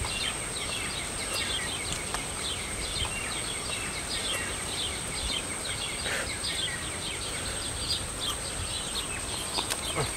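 Outdoor rural ambience: birds chirping over and over in short falling notes, several a second, over a steady high-pitched whine.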